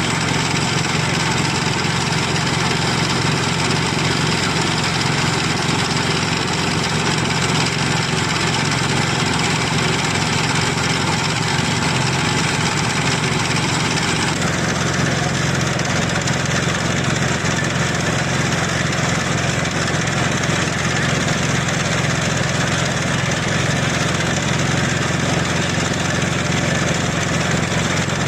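Concrete mixer truck's engine running steadily, with a sudden change in its sound about fourteen seconds in.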